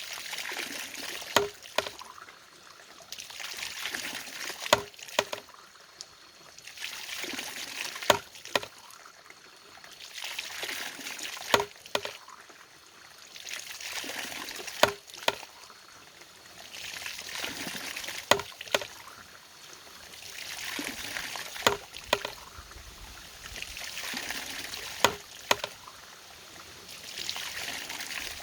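Water pouring and splashing in a regular cycle, with a sharp knock about every three and a half seconds, as a water-powered mechanism works.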